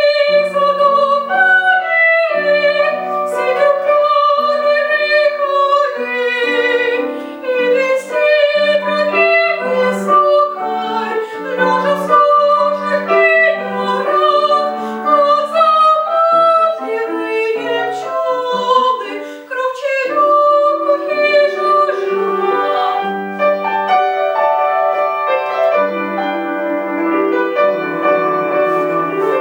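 Female classical voice singing a romance with piano accompaniment, long notes held with vibrato over piano chords.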